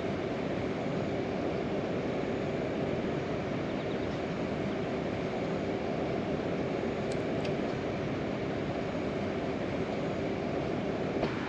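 Steady heavy rain, an even dense hiss and rumble with a faint constant hum underneath.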